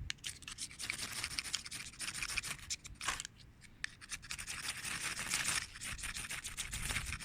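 Ferrocerium fire steel being scraped hard with steel in a rapid series of strokes, striking sparks onto dry-grass tinder to start a fire.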